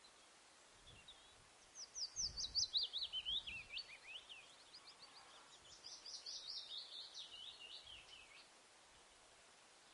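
A songbird singing two rapid phrases of short notes that sweep downward in pitch, the first starting about two seconds in and the second about five seconds in.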